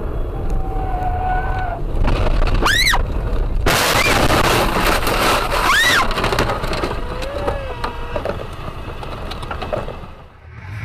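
A road accident: short rising-and-falling tyre squeals, then a loud crunching, breaking noise that lasts about three seconds.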